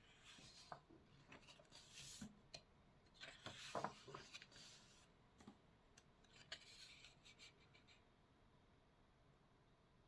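Faint scratching and rustling of paper in irregular bursts, dying away about two seconds before the end.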